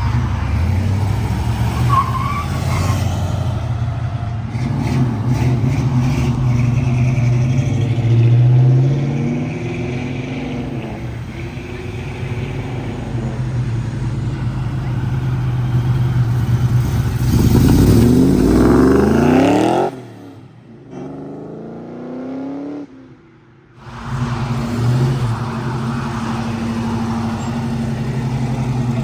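Car engines rumbling at low revs, then one car accelerating hard with its engine note climbing steeply. The sound drops off abruptly about twenty seconds in and comes back about four seconds later.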